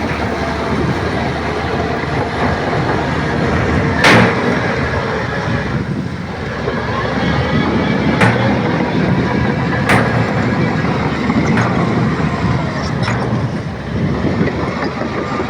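Shantui crawler bulldozer running and moving on its tracks: a steady engine with continuous track clatter, broken by four sharp metallic clanks spread through the stretch, the first about four seconds in being the loudest.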